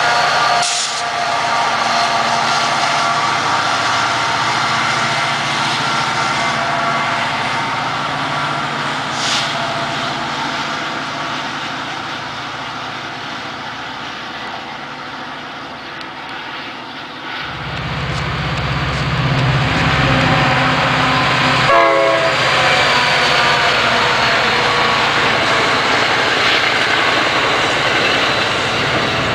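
Diesel-hauled commuter train approaching and passing close by. Steady ringing tones in the first part give way to a heavy engine rumble that comes in suddenly about two-thirds through as the locomotive draws near, followed by the passenger coaches rolling past.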